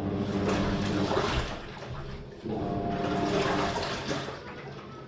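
Living & Co 5.5 kg top-loading impeller washer in its wash agitation: the motor hums and water churns around the clothes in two surges of about two seconds each, easing off near the end.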